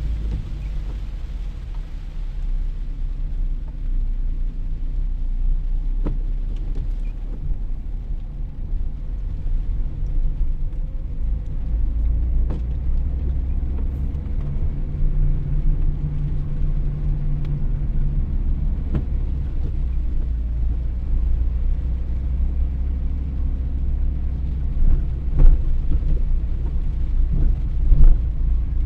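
Steady low rumble like a car in motion, with a faint tick roughly every six and a half seconds and a couple of louder knocks near the end.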